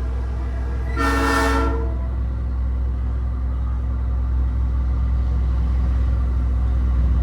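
Nathan Airchime P3 train-style air horn on a big rig, blown once in a short chord of under a second about a second in. Under it runs the steady low rumble of the truck's diesel engine.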